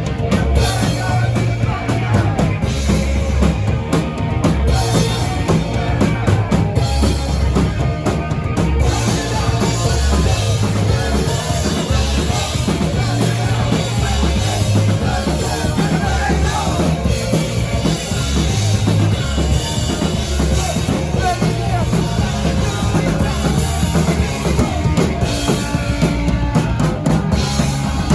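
Live rock band playing loud and without a break, the drum kit and bass drum strong under the band.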